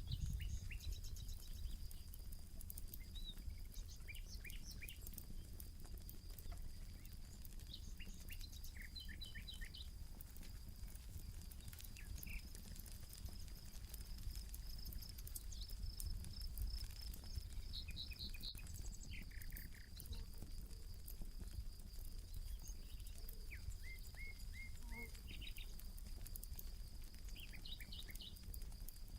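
Campfire crackling with many small pops, while songbirds chirp and trill in short phrases again and again. A thin, steady high tone and a low rumble run beneath.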